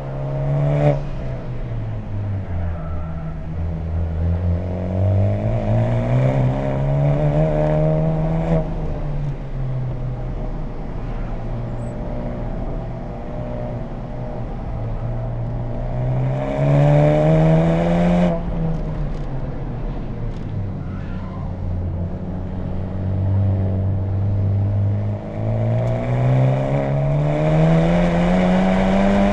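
2020 Honda Civic Type R (FK8) with an HKS Legamax Premium exhaust, its turbocharged four-cylinder driven hard on track. The revs climb over several seconds, drop off sharply, sag and hold low for a few seconds, then climb again, three times.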